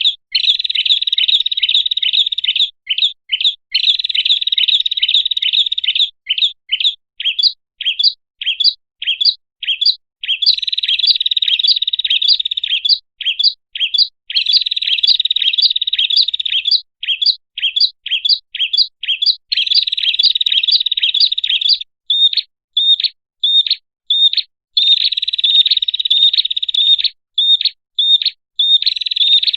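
Prinia (prenjak) lure call: loud, rapid chirping in runs of several seconds, broken up by single, spaced chirps.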